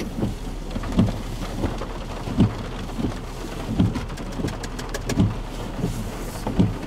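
Heavy rain on a car's roof and windshield, with the windshield wipers thudding in a steady beat about once every second and a half. A burst of sharper ticks from drops striking the glass comes midway.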